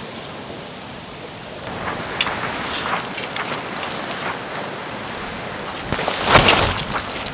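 Strong gusting wind blowing across the microphone, with scattered clicks and rattles and a loud gust about six seconds in.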